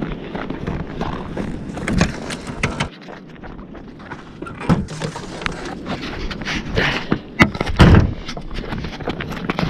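Wind buffeting the microphone, with footsteps crunching in snow and a string of knocks and thumps, the loudest about seven to eight seconds in.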